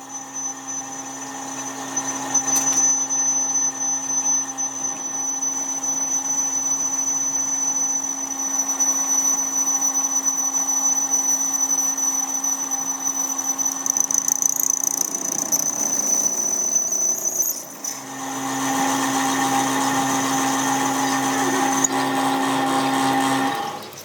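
An electric machine tool or power tool runs with a steady low hum and a high whine. The sound fades partway through, comes back louder, then stops suddenly just before the end.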